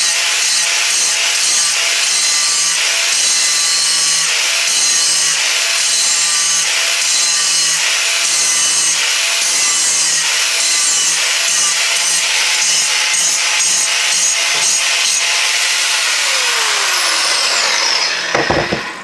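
Grinder grinding the sharp edges of a steel anvil, a loud, steady abrasive grinding. Near the end the grinder is switched off and its whine falls in pitch as it spins down.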